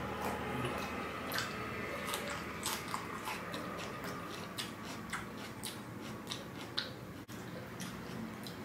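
A person chewing a mouthful of paneer in masala gravy, close to the microphone: irregular smacking clicks of the mouth and lips, about one or two a second.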